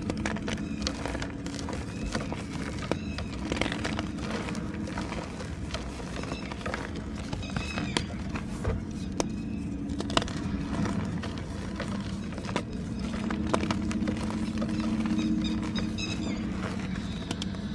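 Blocks of gym chalk being crushed and crumbled by hand: irregular dry crunches and sharp cracks, over a steady low drone.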